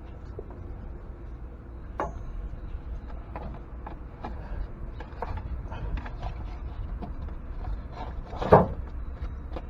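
Scattered light clicks and knocks of tools and parts being handled under a truck during an oil change, with one louder knock about eight and a half seconds in.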